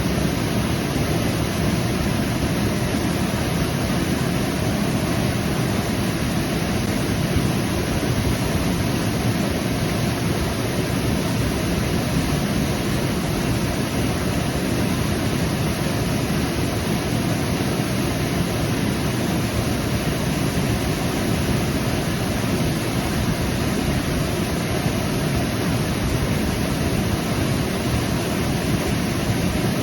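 Waterfall: a steady rush of falling water, deep and even, with no change.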